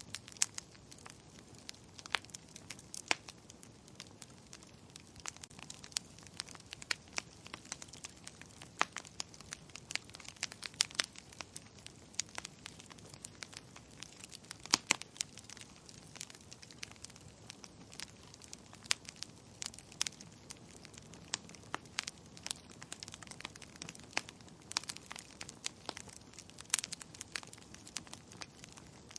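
Wood fire burning in a fireplace, crackling with irregular sharp pops, some of them loud, over a soft steady hiss.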